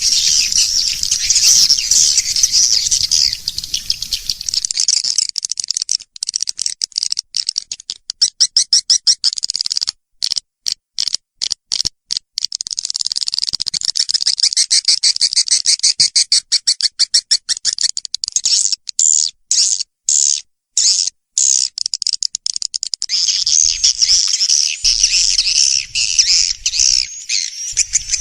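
Edible-nest swiftlet calls played as a swiftlet lure recording: fast, high-pitched twittering chirps. The twittering is dense at first and again near the end. Through the middle it turns into rapid clicking trains, broken again and again by short silences.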